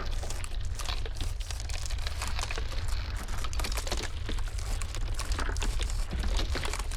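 Ice cracking in a dense, irregular run of small crackles and snaps over a steady low rumble.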